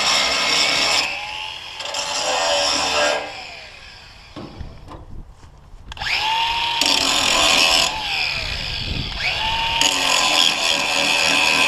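Electric power tool run in several bursts, its motor whining up to speed each time it starts again, with a pause near the middle.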